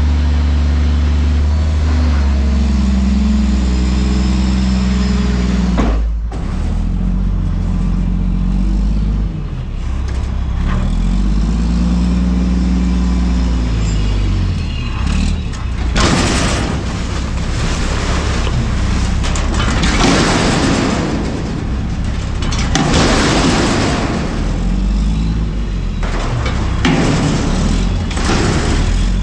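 Front-loader garbage truck's diesel engine running, its pitch rising and falling repeatedly as it revs to drive the hydraulics. About halfway through, loud rushing, crashing bursts of noise come in several waves over the engine.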